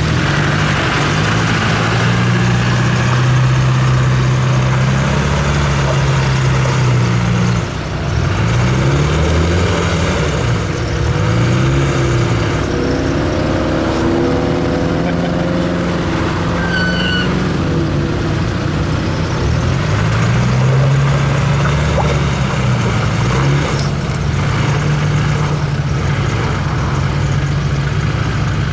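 An off-road 4x4's engine working under load, its revs rising and falling again and again as it is driven over rough ground, with a steady rumble of rattling and tyre noise beneath it.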